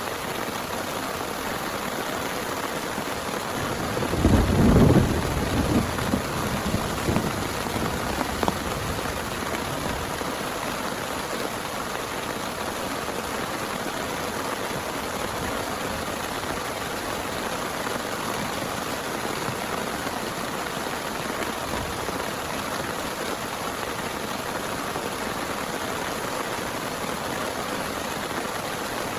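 Steady heavy rain, with a rumble of thunder about four seconds in that fades away over a few seconds.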